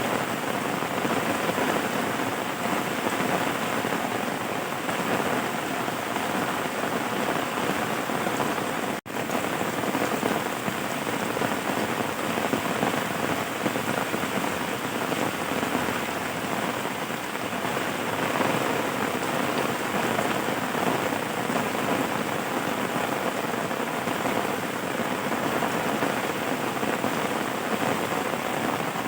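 Steady rain falling in an even, dense hiss. It cuts out for a split second about a third of the way in.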